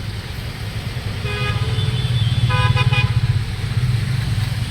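Road-vehicle horn honking twice, the second time as a few quick toots, over a steady low rumble of passing traffic.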